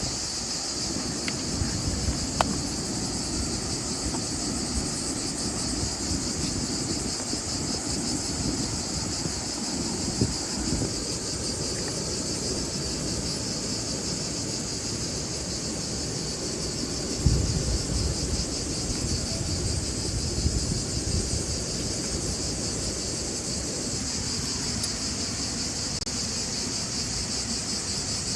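Steady, high, finely pulsing chorus of insects chirping, over a low rumble, with a soft knock about two-thirds of the way through.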